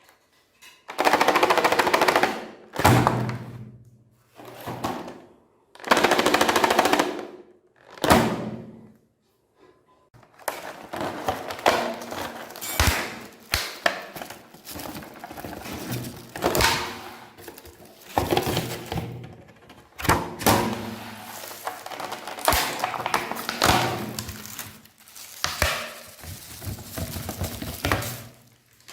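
Meat grinder crunching frozen ice cream bars, their hard coating crackling as it is crushed. In the first ten seconds it comes in five separate bursts with pauses between; after that the crackling grind runs almost without a break over a steady hum.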